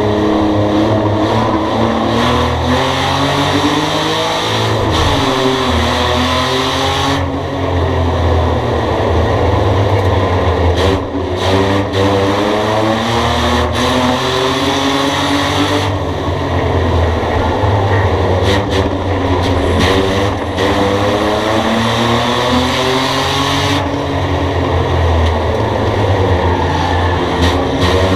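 Race car engine on repeated hard acceleration, its pitch climbing steadily and then dropping as it lifts, in a cycle about every eight seconds as it laps a short oval. The car is a 2008 Ford Mustang running in a bomber class.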